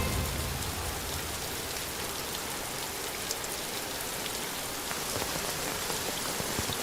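Steady rain falling, an even hiss with no music over it, as the song's last notes fade away at the start.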